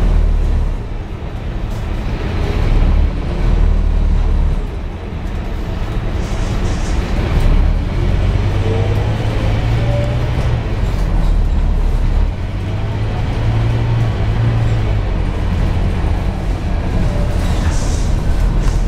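Scania K230UB single-deck bus's diesel engine running under way, its low drone shifting in pitch a few times as the bus changes speed and gears, with road and body noise.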